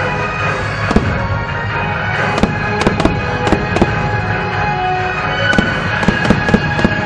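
Aerial fireworks bursting, a dozen or so sharp bangs at irregular intervals, over background music.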